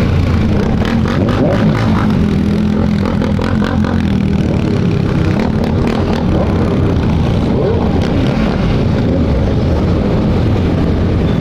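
Motorcycle engines running together in a group ride, pitch rising and falling now and then as riders work the throttle.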